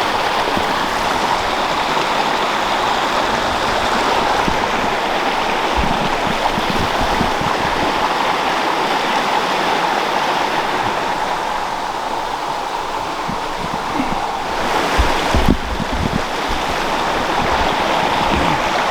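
A river flowing, a steady rush of water. A few low thumps come through, most of them about fifteen seconds in.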